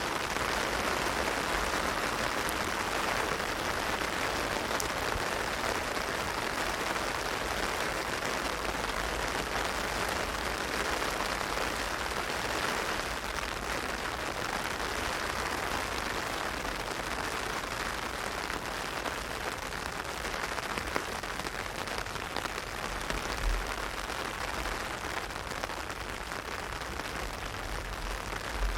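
Heavy rain falling on an umbrella overhead: a steady, dense hiss of drops. A few brief low thumps come in the second half.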